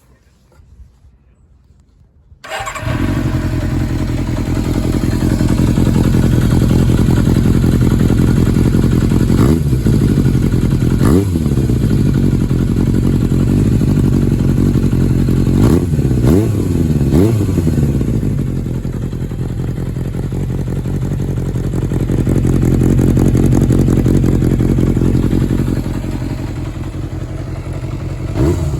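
Kawasaki Zephyr 400's air-cooled inline-four engine, breathing through an M-Tec Chukyo monaka aftermarket muffler, starts about two and a half seconds in and settles to a steady idle. It is revved in several quick throttle blips, rising and falling, then idles again.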